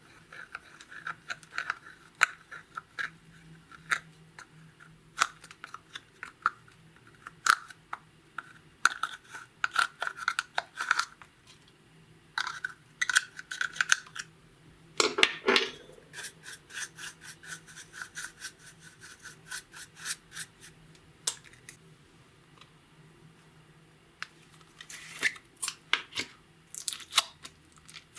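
Clear slime being worked by hand, with sticky clicks and small crackling pops, including a quick regular run of clicks in the middle.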